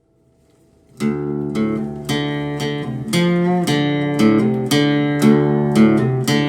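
Background music: an acoustic guitar strumming chords, starting about a second in after near silence.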